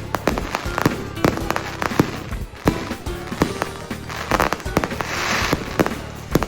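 Fireworks display: a rapid run of sharp bangs and pops from bursting shells, with swells of hissing crackle, the biggest about four to five and a half seconds in, over music.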